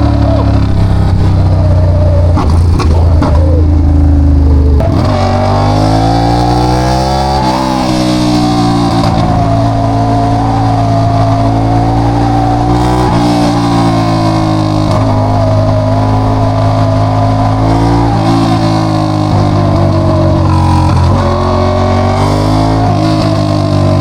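Ducati Diavel 1200's Testastretta L-twin engine running loud through a straight-pipe exhaust. It holds steady at first, then about five seconds in it revs up, and its pitch climbs and drops back in steps several times.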